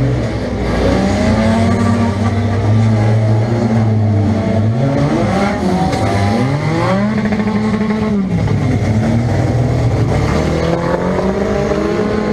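Nissan Pulsar's 1.8-litre four-cylinder engine heard from inside the car, running at a steady speed for the first few seconds, then dropping and revving back up several times through the middle, with other engines revving alongside.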